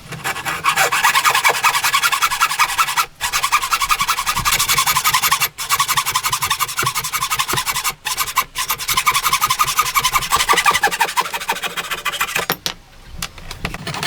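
A hand tool working wood with fast, even back-and-forth strokes, in long runs broken by a few short pauses.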